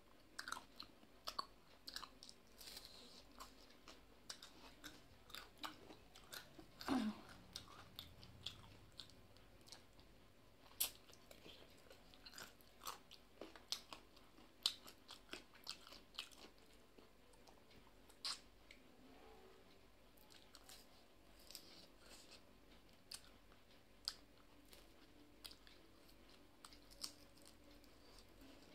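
Close, quiet chewing of chicken curry eaten by hand, with irregular wet mouth clicks and smacks, a few of them much louder than the rest.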